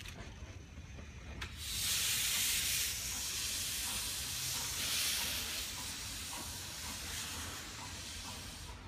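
Steam hissing from Beyer Peacock 2-4-0T locomotive No.12 Hutchinson, a steady rush of steam that starts abruptly about a second and a half in, loudest for the first second, then easing.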